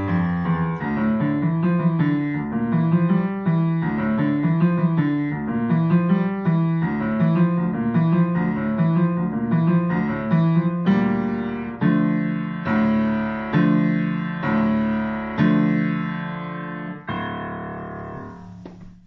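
A piano playing the end of a short piece. A quick, repeating figure of notes runs for about ten seconds, then the tune slows into a series of struck chords that are each left to ring. The last chord dies away near the end.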